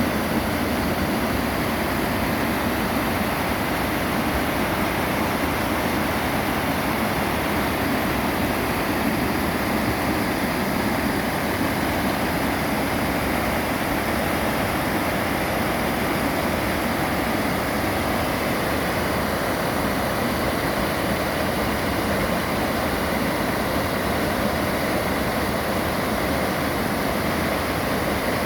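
Running water making a steady, even rush with no breaks.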